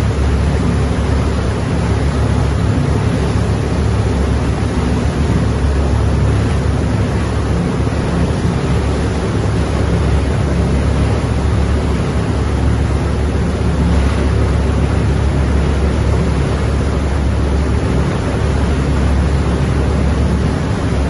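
Steady outdoor rumble and hiss, heaviest in the deep bass, unchanging throughout.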